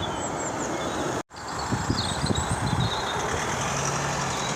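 Steady outdoor background rumble with faint bird calls above it. The sound cuts out completely for a moment about a second in.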